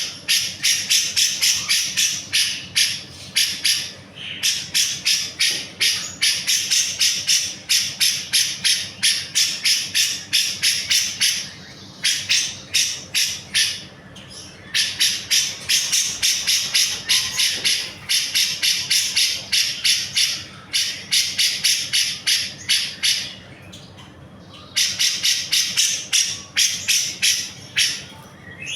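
Cucak jenggot (grey-cheeked bulbul) singing loudly: a rapid, even run of sharp high chirps, several a second, in long bouts broken by short pauses.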